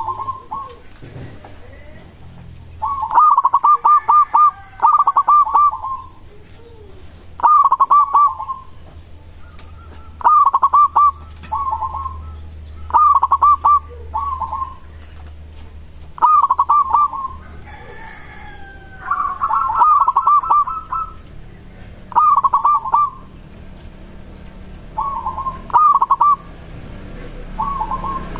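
Zebra dove (perkutut) cooing: short, rapidly pulsed trilled coos repeated every two to three seconds, with faint high chirping and a low hum underneath.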